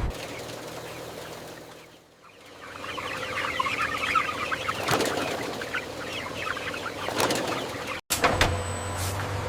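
A flock of chickens clucking and flapping their wings, many birds at once. About eight seconds in the sound cuts abruptly to sharp knocks.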